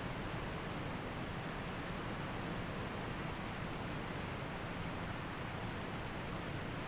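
Waterfall and creek water rushing, a steady even roar of falling and flowing water.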